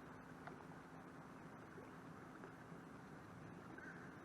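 Near silence: faint, steady outdoor background hiss with a low hum, and a couple of faint short chirps near the end.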